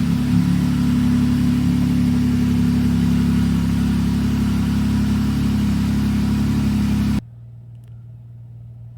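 Jeep Wrangler engine idling steadily just after starting. Its cylinder 1 and 3 coil packs have been swapped to trace a P0301 cylinder-1 misfire. A little over seven seconds in, the engine sound cuts off abruptly to a quieter steady hum.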